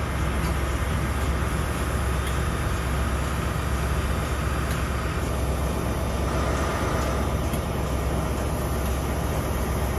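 Passenger train running past close by: a steady rumble of wheels on rails, with no break or change in loudness.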